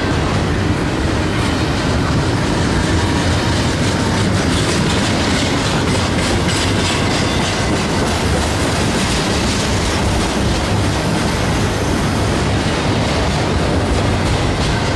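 Freight train cars rolling past steadily, wheels rumbling on the rails with a repeating clickety-clack over the rail joints.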